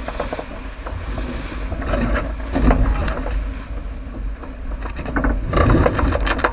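Wind buffeting the microphone and water rushing and splashing along a J80 sailboat's hull as it sails downwind, with scattered small knocks and clicks. The water swells louder about two and a half seconds in and again near the end.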